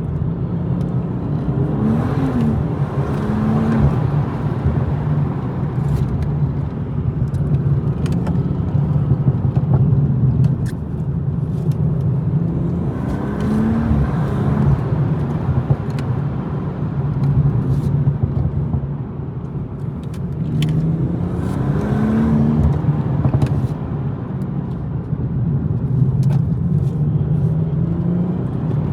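BMW M240i's turbocharged 3.0-litre inline-six running under way, with the engine note rising and falling through gear changes several times. Over a steady drone of tyres and road noise, scattered short sharp clicks come through.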